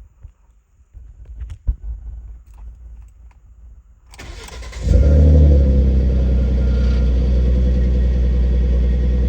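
Ford Mustang V6 engine cranked over by the starter about four seconds in. It catches and settles into a steady idle, running normally after a fresh oil change. A few light clicks and knocks come before the start.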